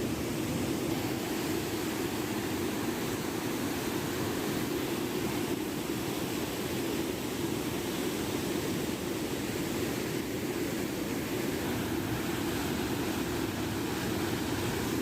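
Steady rushing noise, even and unbroken, heaviest in the low-mid range.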